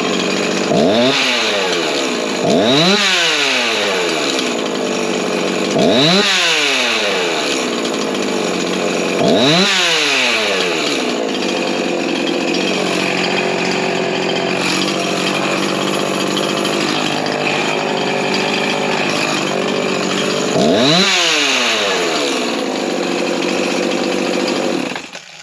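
Rebuilt Husqvarna 353 two-stroke chainsaw running and revved about five times, each rev climbing sharply in pitch and falling back to idle, then shut off suddenly near the end. The saw has a new cylinder and pop-up piston, and its low-speed mixture has just been adjusted.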